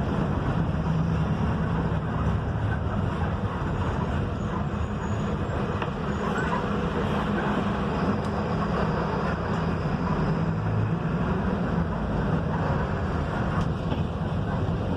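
Mercedes-Benz OF-1721 bus under way: a steady diesel engine hum under continuous road and tyre noise.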